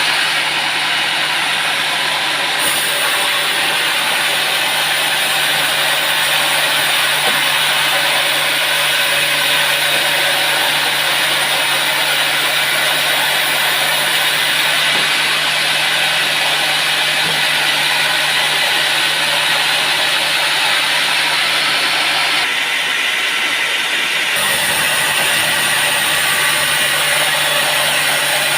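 Sawmill machinery running with a steady, loud noise and a constant low hum underneath.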